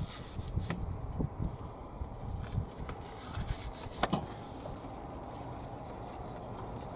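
Intermittent knocks and clinks from hand work on an engine, the sharpest about four seconds in, then steady low background noise.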